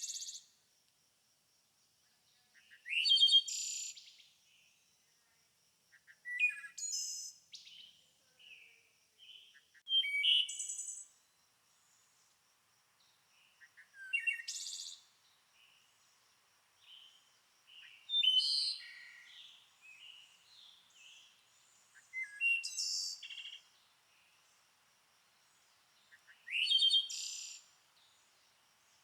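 A songbird singing short, loud phrases of quick high notes, one about every four seconds, with softer chirps in between and a faint steady high tone behind.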